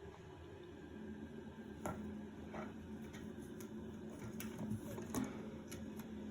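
A few light, scattered clicks and taps over a low steady hum.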